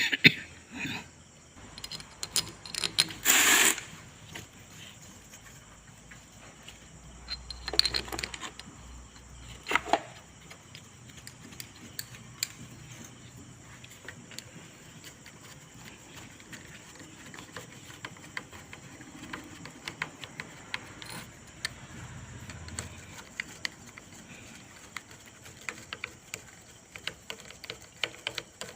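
Workshop handling noises from work on a car's steering box: scattered clicks and clinks of metal tools and parts, with a brief louder noise about three seconds in and two smaller ones a few seconds later.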